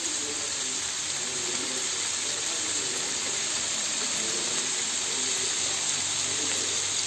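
Steady sizzling hiss of food frying in a hot pan.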